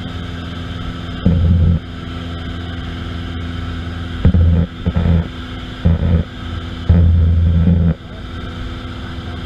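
Aircraft engine running with a steady drone, broken by four short, louder low-pitched surges.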